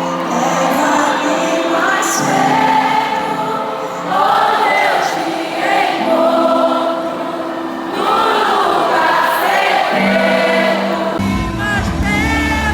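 Live worship music: sustained keyboard chords under many voices singing together, with low bass notes coming in near the end.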